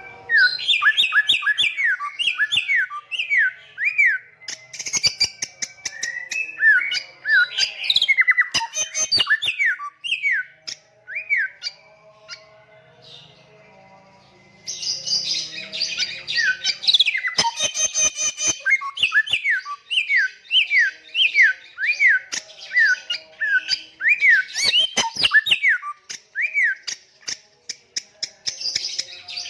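Bare-throated whistler singing: fast runs of loud whistled notes that sweep up and down. The runs stop briefly about halfway through, then pick up again with a short harsher, buzzier phrase, and sharp clicks are mixed in among the notes.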